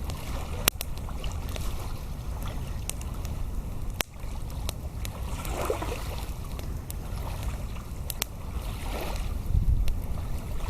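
Wind buffeting the microphone in a low, steady rumble, with a wood campfire crackling in scattered sharp pops.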